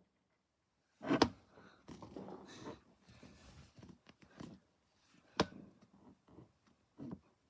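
Fireworks going off: two sharp bangs, one about a second in and one a little past five seconds, with fainter crackling and pops between them and a smaller pop near the end.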